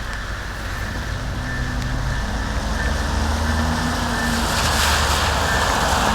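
Norfolk Southern freight train's lead diesel locomotive approaching, its engine drone and the rushing noise of the train growing steadily louder.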